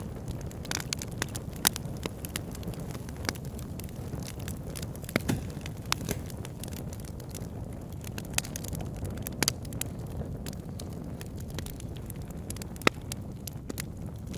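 Wood fire burning in a fireplace: a steady low rush of flames with irregular sharp crackles and pops, a few louder snaps standing out.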